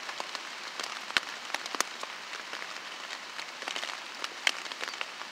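Steady rain, with individual drops striking close to the microphone as frequent sharp ticks, a few of them much louder.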